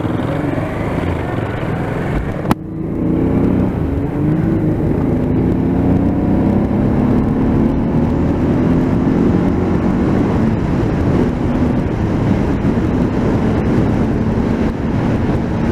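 Motorcycle engine pulling away, its note rising slowly over several seconds, heard through a mic inside the rider's helmet over a steady rush of noise. A sharp click comes about two and a half seconds in.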